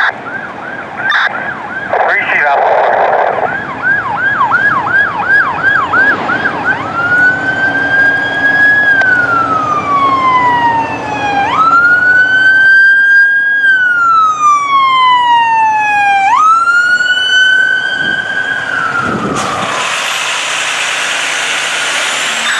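Fire apparatus siren on an emergency response, sounding a fast yelp at about three cycles a second, then switching to a slow wail that rises and falls twice before fading away. Near the end a broad rushing noise takes over.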